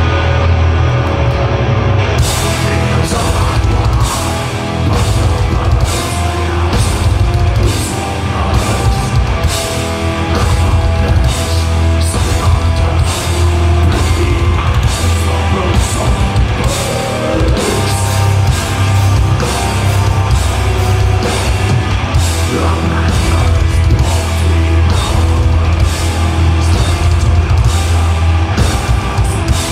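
Sludge metal band playing live: heavily distorted guitar and bass over a pounding drum kit. About two seconds in the drums and cymbals come in hard, keeping a steady beat of crashing hits.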